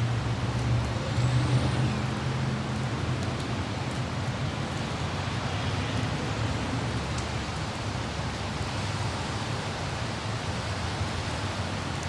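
A low vehicle rumble in light rain, loudest in the first couple of seconds and then easing, over a steady hiss of rain and wind.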